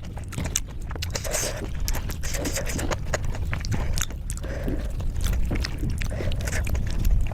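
Close-up wet chewing and lip-smacking of a person eating soft khichdi, a rice-and-lentil mash, with many short mouth clicks over a low background rumble.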